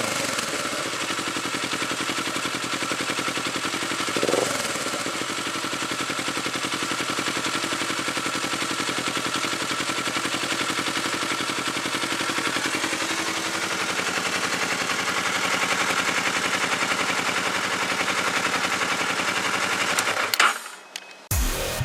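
Kawasaki Ninja 650R's parallel-twin engine running through a loud aftermarket Arrow exhaust. It is given one short rev about four seconds in, then idles steadily, and the engine sound cuts off abruptly near the end.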